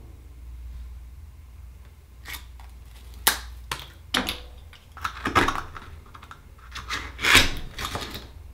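Akoya oyster shells and tools being handled as the next oyster is opened: a string of irregular hard clicks, taps and short scrapes, the loudest cluster near the end.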